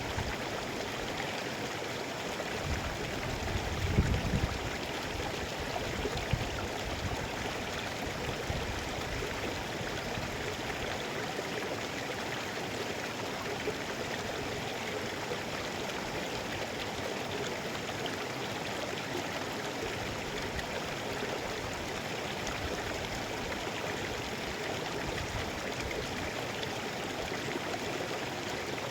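Mountain river flowing over rocks, a steady rushing and gurgling, with a few low rumbling thumps about four to six seconds in.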